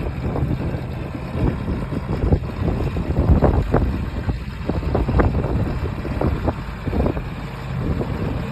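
Tractor engine running with a low rumble and irregular clattering knocks.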